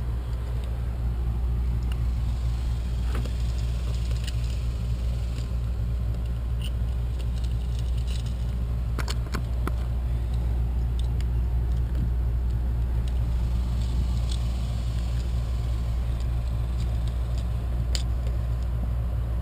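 A steady low rumble with a few sharp little clicks and ticks scattered through it, from wires being worked onto a GFCI outlet's terminal screws.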